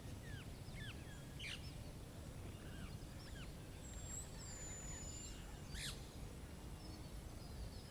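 Birds chirping in many short, quickly falling calls, with one long high whistle about four seconds in, over a steady low rumble.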